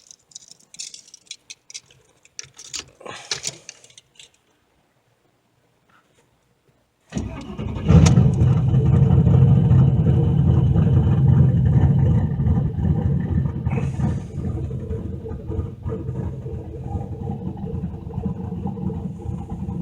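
A few light clicks and rattles, then after a short silence a turbocharged LS V8 cranks and fires about seven seconds in. It flares up loudly as it catches, then settles to a steady idle that is running super rich, with the fuelling not yet tuned.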